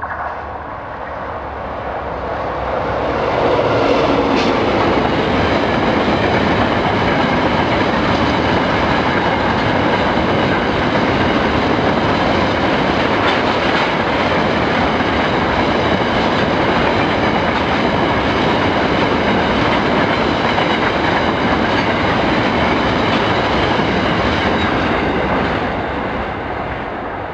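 Freight train of coal wagons rolling past, steel wheels clattering over the rails. The sound builds over the first few seconds, holds steady, then fades near the end as the last wagons go by.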